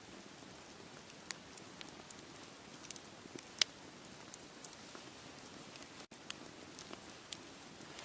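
Wood campfire crackling, with irregular sharp pops, the loudest about three and a half seconds in, over a steady wash of sea waves.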